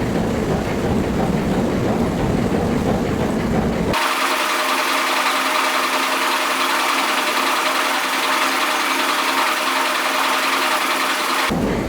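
Workshop machinery running steadily: a low rumble, then an abrupt cut to a hissing machine sound with a steady hum, which cuts back to the rumble near the end.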